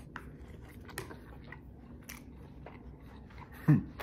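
A person chewing a mouthful of beef tagine close to the microphone, with small scattered mouth clicks. A short hum of the voice comes near the end.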